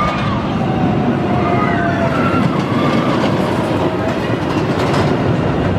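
Roller coaster train running along its track: a loud, steady rumble of the wheels with faint gliding whines above it.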